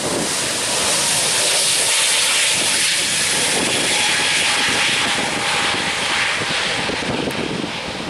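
Jet airliner's engines roaring as it passes close by, a loud rushing roar with a faint whine. It builds in the first second, holds, and eases off near the end.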